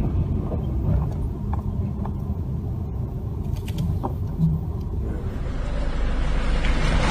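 Low, steady road rumble of a car driving, with a few faint ticks; the sound changes about five and a half seconds in.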